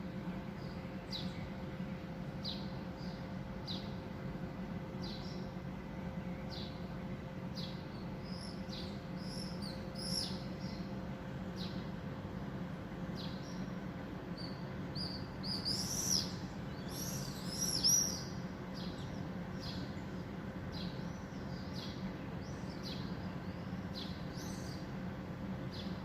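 A small bird chirping repeatedly, short high notes about once a second, with a brief flurry of louder calls about two-thirds of the way through, over a steady low background noise.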